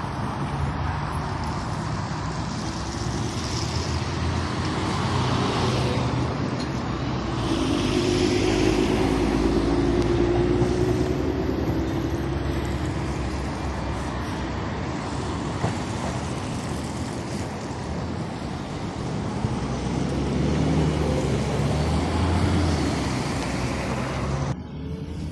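Tatra T6B5SU tram running, a steady rumble of wheels and running gear with a hum that comes in for several seconds around the middle. The sound cuts off abruptly just before the end.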